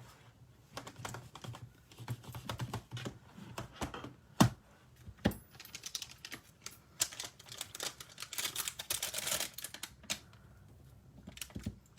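Stamping supplies being handled on a desk: irregular small clicks, taps and knocks of stamps and acrylic blocks, two sharper knocks about four and five seconds in, and a short rustle of paper about eight seconds in.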